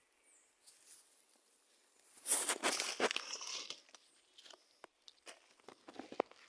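Crackling, tearing rustle of something being handled close up, loudest from about two seconds in, followed by scattered sharp clicks and snaps.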